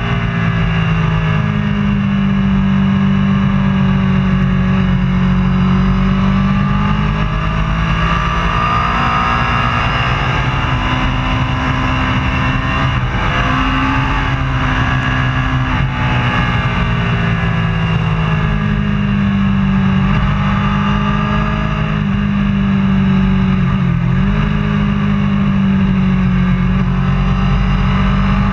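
Superbike racing motorcycle engine running hard, its pitch slowly rising and falling over several seconds as it accelerates and eases off, over a constant rough rumble.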